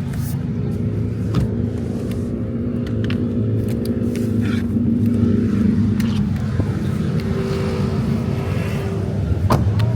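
A car engine idling close by, running at a steady speed, with a few sharp clicks over it.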